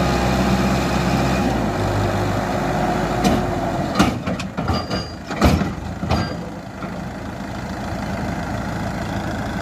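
Farmtrac tractor engine running steadily, with a held whine that stops about four seconds in. A few sharp knocks follow over the next couple of seconds, and the engine then settles to a slightly quieter idle.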